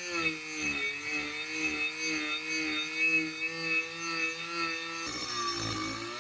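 A small power tool running with a steady motor tone that wavers slightly in pitch, along with rough scraping as it bears on the work. About five seconds in, the tone changes and drops.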